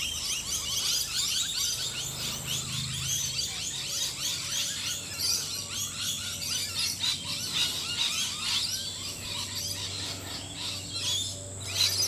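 Many birds chirping and calling together: a dense, continuous chorus of quick high notes.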